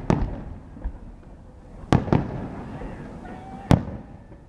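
Aerial fireworks bursting: sharp booms about a second in from the start, a pair near two seconds and another near the end, each trailing off in an echo, over a low rumbling background.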